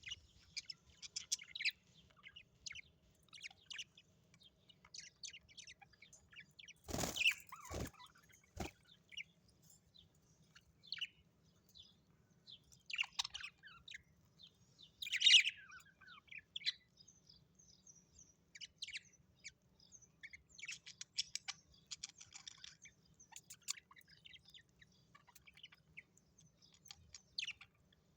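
Birds chirping and calling, with many short high chirps in quick, uneven runs and a louder call about fifteen seconds in. Three sharp knocks come about seven to nine seconds in.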